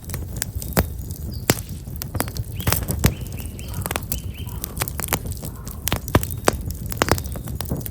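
Campfire of black locust firewood burning, with sharp irregular crackles and pops over a steady low rumble. Small birds chirp faintly around the middle.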